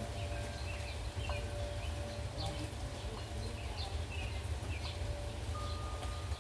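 Wind chimes ringing on in long sustained tones, with a higher tone struck near the end, over a steady rumble of wind and the hiss of rain. Short bird chirps sound now and then.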